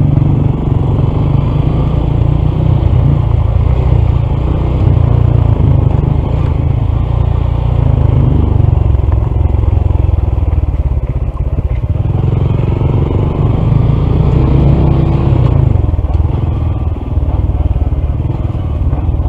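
Honda CT125's single-cylinder engine running under way, with wind rumble on the microphone. The engine is damaged internally by a faulty piston and a misaligned valve.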